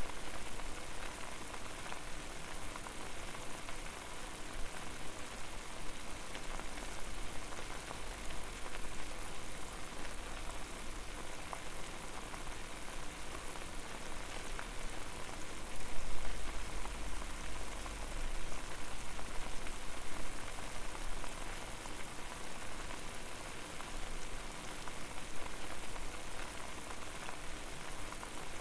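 Water boiling steadily over a flame: a dense, even bubbling and crackling, with a louder low rumble swelling for a couple of seconds a little past the middle.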